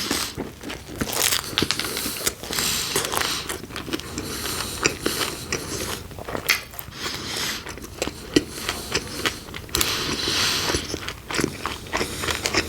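Close-up eating sounds: biting into and chewing crunchy pepperoni pizza, with crisp crackling bites and chewing noises throughout.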